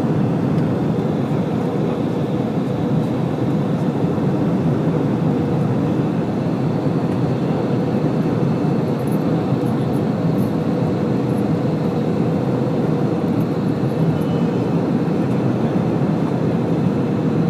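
Airliner cabin noise during the descent to landing: a steady rush of engine and airflow noise with a constant hum running through it, heard from inside the passenger cabin.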